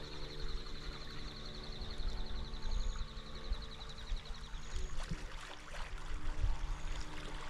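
Outdoor water ambience: water sloshing over a low wind rumble and a steady low hum, with a rapid high trill that stops about two-thirds of the way through.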